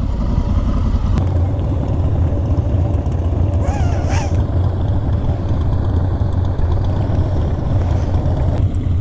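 Honda Africa Twin motorcycle under way, its engine running steadily with road noise. A brief wavering high sound comes about four seconds in.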